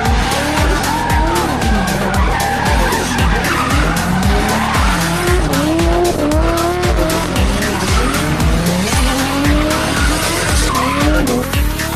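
Drift car engine revving up and down over and over as the tyres skid, over music with a steady bass beat.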